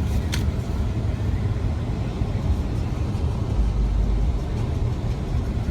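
Steady low road rumble inside a car's cabin as it drives on snowy roads, with one sharp click shortly after the start.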